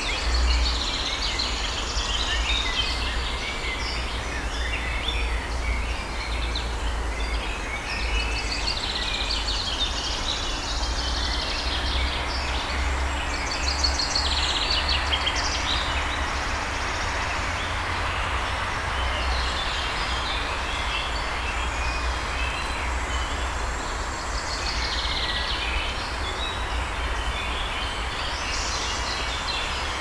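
Several woodland birds singing and calling, in frequent short chirps and trills, over a constant low rumble and an even background hiss.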